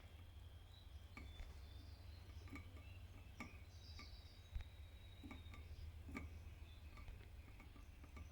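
Faint clicks and taps, about one a second, with a few soft high chirps from a red lipochrome canary, over a low steady hum.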